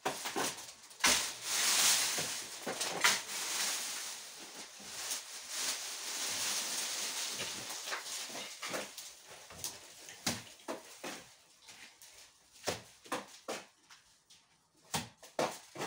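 Dry brush being gathered and carried by the armful: several seconds of dense rustling and crackling of twigs and branches, then scattered snaps and knocks.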